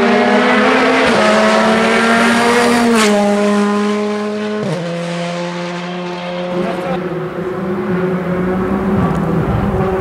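Rally car engine at high revs on a special stage, its pitch dropping in steps about three and five seconds in, then holding. It fades a little in the middle and grows louder again toward the end.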